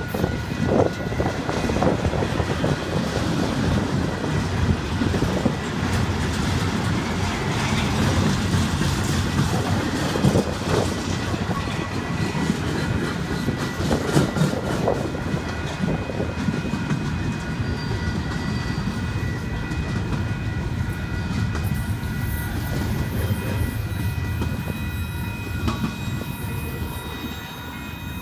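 Double-stack container train's well cars rolling past close by, steel wheels clattering over the rails in a steady, unbroken stream that eases off slightly near the end as the last cars go by.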